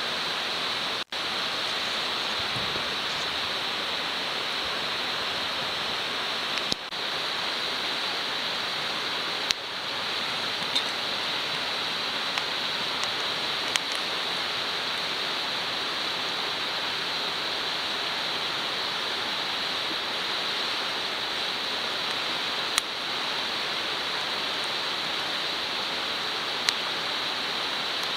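Steady sizzling hiss of food frying in a wrought-iron frying pan over a wood fire, with a few sharp pops scattered through it.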